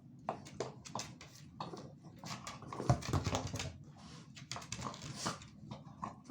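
An American Staffordshire terrier puppy and a Boston terrier play-fighting: scuffling with many quick paw and claw taps and knocks, and one loud thump about halfway through.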